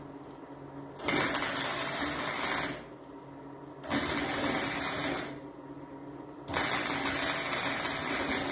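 Three bursts of loud rushing, hissing noise from a workshop tool being started and stopped, over a steady low hum.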